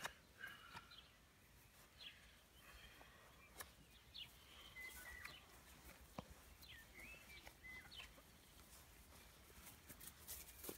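Faint, scattered bird chirps: short high calls, some with quick little glides in pitch, spread through a near-quiet outdoor background, with a couple of soft clicks.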